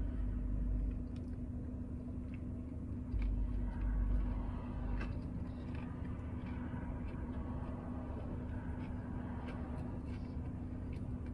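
A person chewing a mouthful of chicken wrap, with faint smacking and clicks, over the steady low hum of a car. Low thumps come about a second in and again around three to four seconds in.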